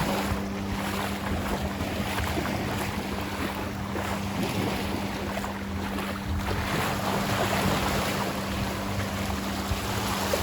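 Ocean waves washing onto a sandy beach, with wind buffeting the microphone. A steady low hum runs under the surf throughout.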